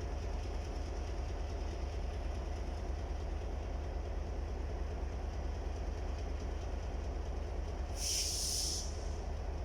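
Diesel locomotive R32 running with a steady low engine rumble. About eight seconds in, a short hiss of released air lasts under a second.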